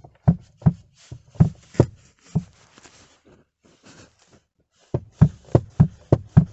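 Sharp knocks of a Chevrolet Lacetti heater air-blend flap being rocked and tapped in its seat to check for play; none is found. About five knocks come in the first two and a half seconds, then a quicker run of about six near the end.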